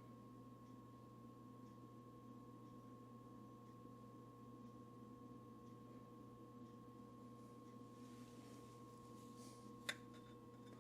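Near silence: a faint, steady electrical hum with a few pure tones, and a single sharp click near the end.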